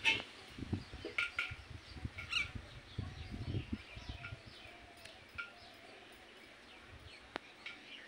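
Short, high bird chirps: a few louder ones in the first three seconds, then fainter scattered ones. Low knocks and rustling sit under the first half.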